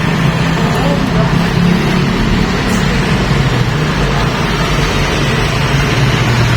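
A vehicle engine running steadily, a constant low drone with no change in speed.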